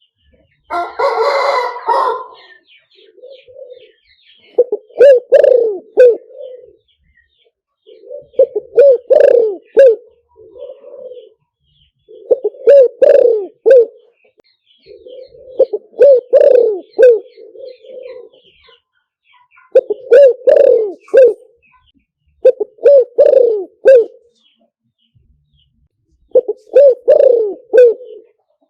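Recorded spotted dove calls: a male spotted dove cooing in repeated phrases of several low notes every three to four seconds, with quieter coos between them, played as a decoy call to lure wild doves. A harsher, noisier call sounds about a second in.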